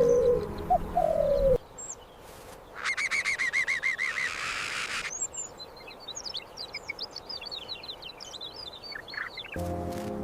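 Birds chirping: a fast warbling trill, then a long run of quick, high chirps. Music plays briefly at the start and comes back near the end.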